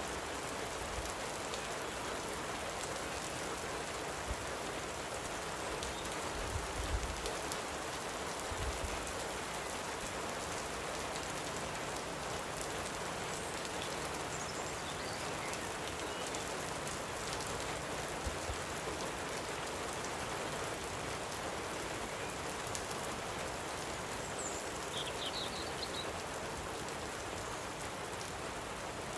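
Steady light rain falling, an even patter with no let-up, with a few soft low thumps. A bird chirps briefly near the end.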